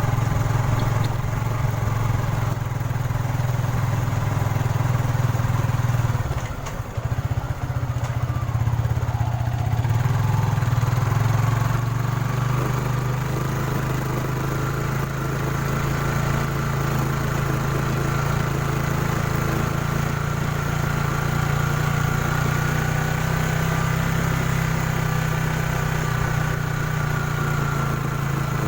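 A small engine running steadily, with a brief dip in level about seven seconds in.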